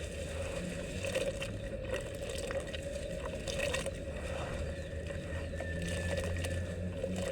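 Dry red dirt crumbling in water, with scattered small crackles and pops over a steady low hum.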